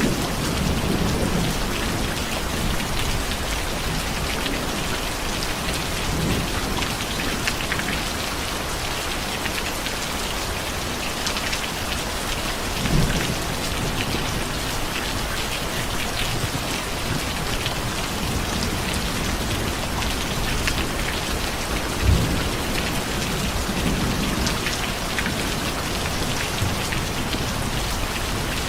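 Steady rain falling on a surface. A low rumble of thunder dies away at the start, and two brief low thumps come about 13 and 22 seconds in.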